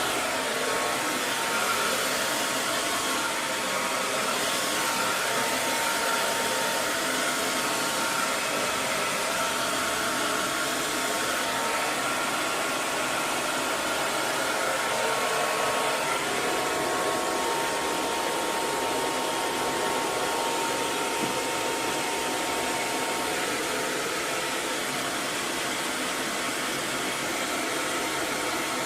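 Handheld hair dryer running steadily: a continuous airy rush of blown air with a faint motor whine, with a slight change in its tone about halfway through.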